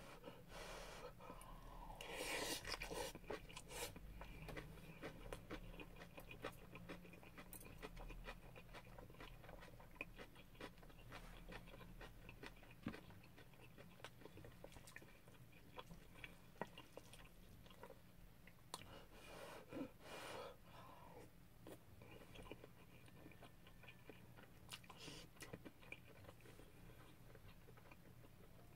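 Faint chewing and eating of fried rice, with small scattered clicks of a wooden spoon against a stainless steel bowl.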